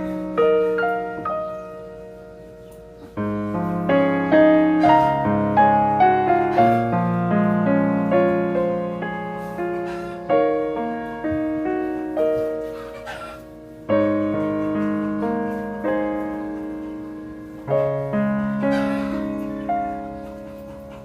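Background piano music: notes and chords struck and left to fade, in slow phrases.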